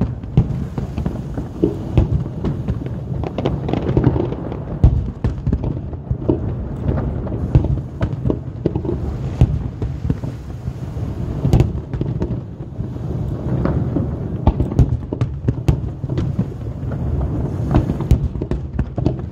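Aerial firework shells bursting in quick succession, many sharp bangs and crackles over a continuous deep rumble of booms, picked up on a smartphone's microphone.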